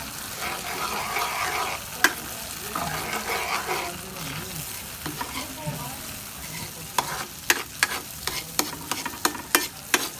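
Flour-coated chicken frying in oil with a steady sizzle while it is stirred in the pan. About two seconds in there is one sharp knock, and from about seven seconds in a quick run of sharp clicks and taps of a utensil against the pan.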